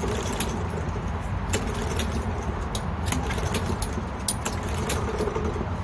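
Irregular sharp clicks and light metallic rattles from a lawn mower being handled while trying to get it started, over a steady low rumble.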